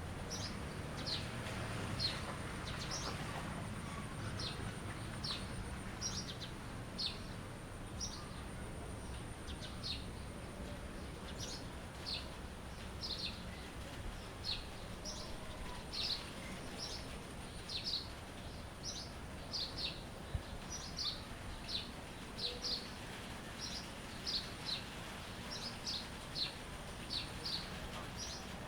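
A bird chirping over and over in short, high notes, about one or two a second, over a steady low rumble and a thin, steady high tone.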